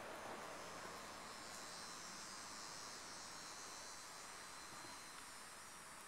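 Faint insect chorus in summer woods: a high, steady buzzing that comes in about a second and a half in and holds, over a low steady hiss.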